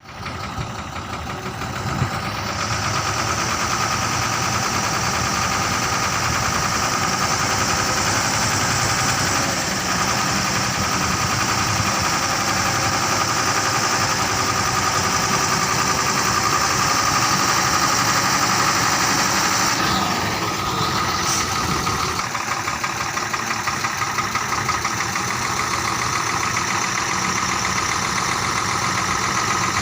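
Ashok Leyland 3118 truck's diesel engine running steadily at idle.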